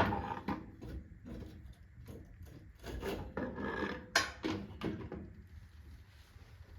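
A run of wooden knocks and short scrapes over the first five seconds, as of firewood being handled, then a quieter stretch.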